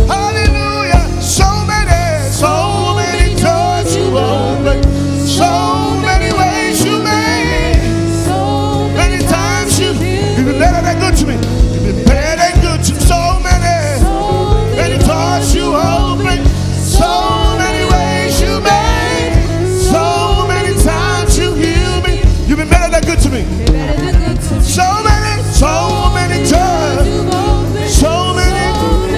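Live praise and worship band music with a steady drum beat and a melody line over sustained chords.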